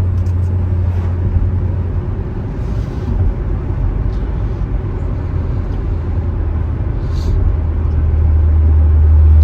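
Cammed, supercharged LT4 V8 of a C7 Corvette Z06 giving a steady low rumble heard from inside the car while it is driven. It grows a little louder near the end.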